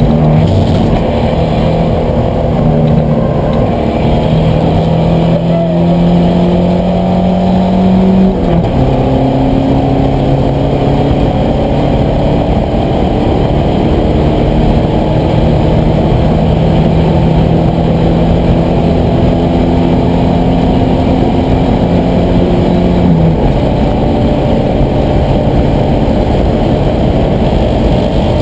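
Turbocharged Mustang race car's engine heard from inside the stripped cabin at full throttle. Its pitch climbs, drops sharply with an upshift about eight seconds in, holds steady at high revs for some fifteen seconds, then falls away near the end.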